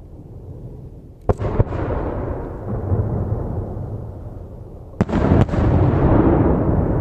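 Aerial firework shells bursting: two pairs of sharp booms, one a little past a second in and another about five seconds in, each followed by a long rolling rumble.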